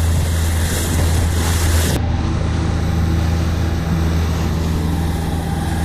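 A boat's engine running steadily at trolling speed, a constant low drone with the hiss of wind and water over it. About two seconds in, the high hiss drops away abruptly while the engine drone carries on.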